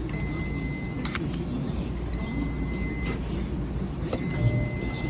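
An electronic beeper sounding a repeating high tone, each beep about a second long with a second's pause between, four times, over a steady low rumble.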